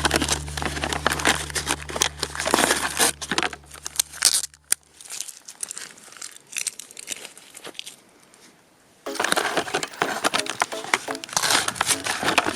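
Crinkling and rustling: a dense run of small crackles, like something being crumpled or handled. It pauses about five seconds in and starts again about nine seconds in.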